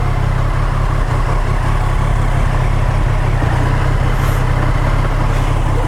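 Motorcycle engine running steadily at low revs, a constant low drone with a fast, even pulse.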